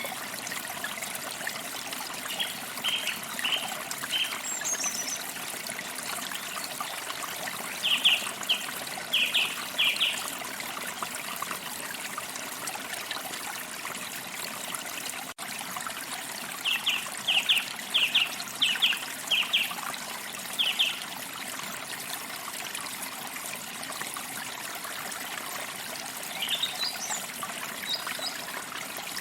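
Forest stream trickling and splashing steadily, with a songbird singing over it in several bursts of quick, short repeated notes, and a brief high whistled glide near the end.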